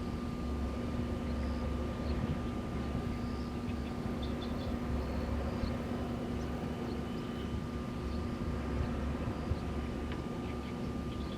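Wind blowing at a wind farm as a steady low rumble, with a constant hum from the wind turbines turning. A few faint short high chirps sit over it.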